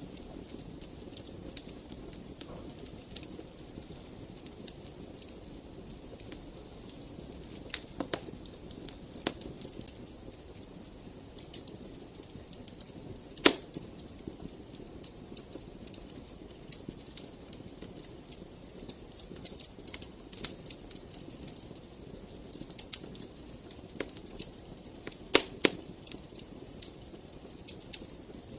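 Fireplace fire crackling, with frequent sharp irregular pops over a low steady rumble of flames. The loudest pop comes about halfway through, and a quick run of pops comes near the end.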